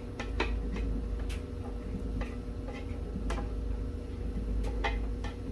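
A spoon clicking and scraping against a pot as cheese sauce is poured out, in single sharp clicks about once a second, over a low steady hum.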